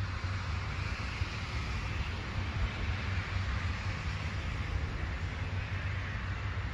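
Approaching train in the distance: a steady low rumble with an even hiss above it.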